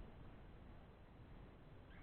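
Near silence: a faint steady hiss, with one brief, faint high-pitched squeak near the end.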